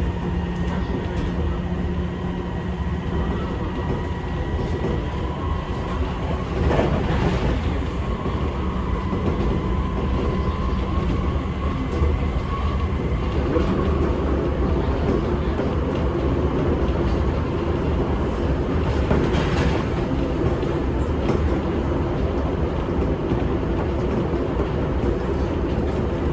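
Seibu 6000 series electric train running at speed, heard from inside the car: a steady rumble of wheels on rail with faint steady whining tones. There are louder clattering surges about 7 and 19 seconds in.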